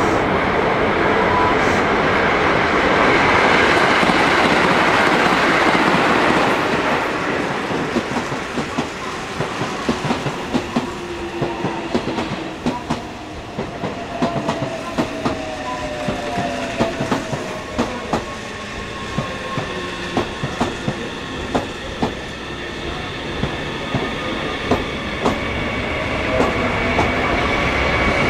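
Meitetsu electric train running along the station track, a steady rumble loudest in the first few seconds. The wheels then clack over rail joints in quick, irregular clicks, with a faint motor whine shifting in pitch midway.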